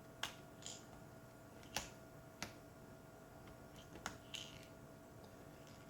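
Scattered small, sharp clicks and taps of plastic and metal laptop parts and tools being handled during reassembly, about six in all at irregular intervals, over a faint steady hum.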